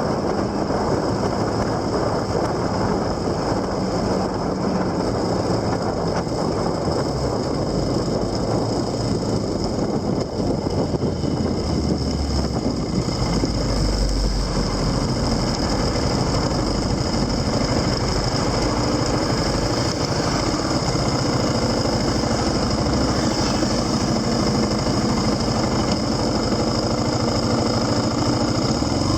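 A vehicle engine running steadily, with road and wind noise mixed in.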